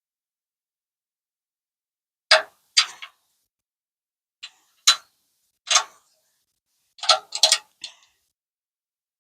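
A series of sharp, irregular clicks and knocks, about a dozen, several coming in quick succession near the end, with silence between them.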